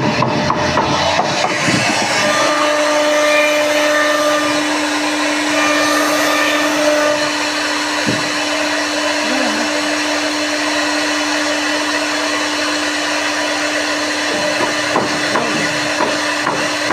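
Woodworking CNC router machine running: a steady motor whine with a constant hiss, with a few clicks in the first couple of seconds.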